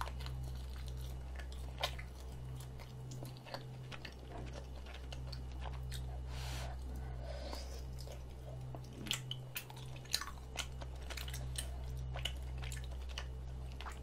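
Close-miked chewing of mouthfuls of spicy rabokki, the chewy rice cakes and sausage giving wet clicks and smacks at an uneven pace. A steady low electrical hum runs underneath.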